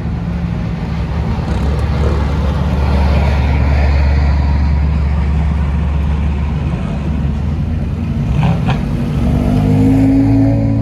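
Race cars running on the circuit, a low engine drone that holds steady, then a rising engine note near the end as a car accelerates.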